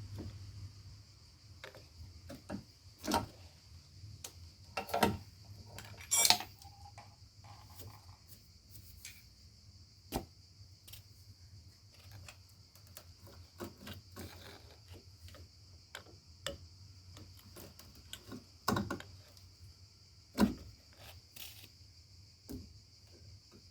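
Scattered metallic clicks and knocks of hand tools and parts being handled while dismantling a car's air-conditioning components, some louder than others, over a faint steady high-pitched background tone.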